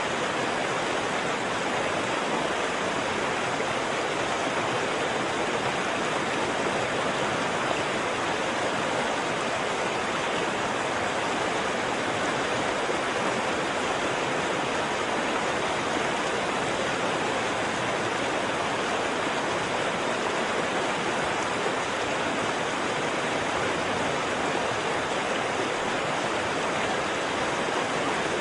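Waterfall rushing in a steady, unbroken wash of falling water.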